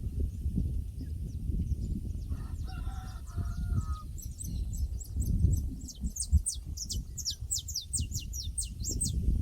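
Pasture ambience: a rooster crows once, a call of nearly two seconds starting about two seconds in. From about four seconds a small bird sings a quick run of high, falling chirps, all over a steady low rumble.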